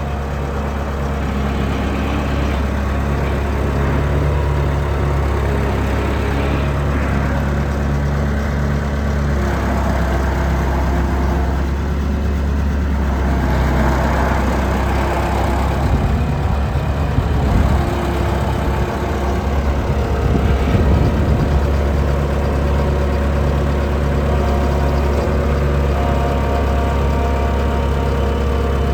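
Bobcat 943 skid steer's diesel engine running steadily at idle, with a rougher, slightly louder stretch about halfway through.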